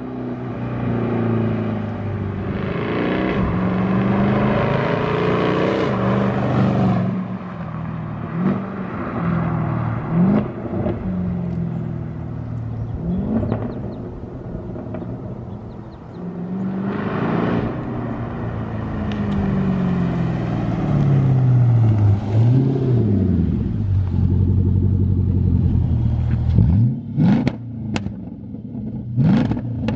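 2011 Jaguar XK's naturally aspirated 5.0 V8 running with its mufflers removed: it accelerates hard again and again, its pitch climbing and then dropping at each gear change. A few sharp cracks come near the end.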